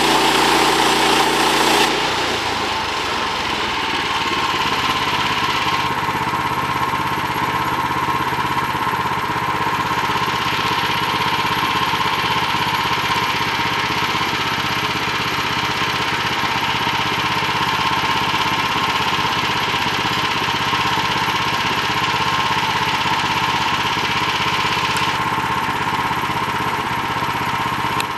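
Two-stroke chainsaw running on a chainsaw mill, loud and steady. Its note changes abruptly about two seconds in, then it runs on evenly.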